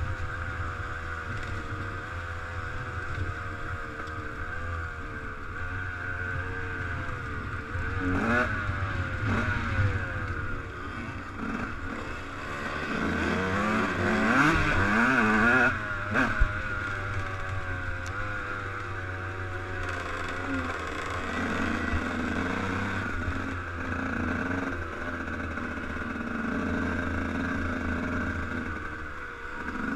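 Motocross bike engine running, its revs rising and falling again and again, with a louder burst of revving around the middle. A single sharp knock comes just after that burst.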